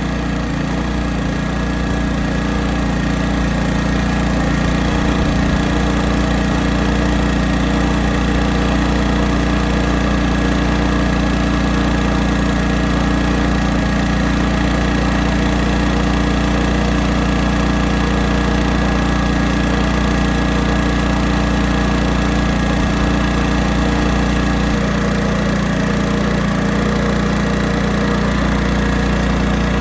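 1980s Honda portable generator's small four-stroke engine running steadily, its carburetor mixture screw turned in two and a half turns so that it runs lean. The low hum shifts slightly about 25 seconds in.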